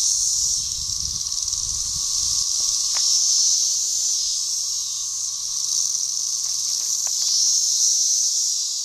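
A chorus of 13-year periodical cicadas (Brood XIX) singing all around: a loud, continuous high-pitched hiss that swells and fades every few seconds, over a steady lower tone.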